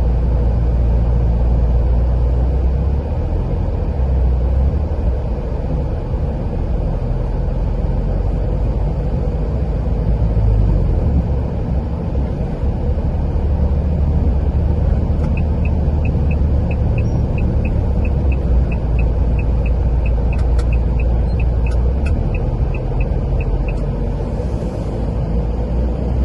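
Car driving along a road: a steady low rumble of engine and tyre noise that swells and eases a little. In the second half a light, regular ticking comes in, about three ticks a second, for roughly eight seconds.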